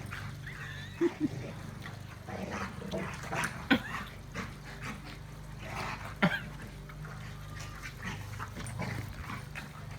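Two dogs play-fighting: growling and scuffling with a few short sharp barks, the loudest about a second in, near four seconds and about six seconds in.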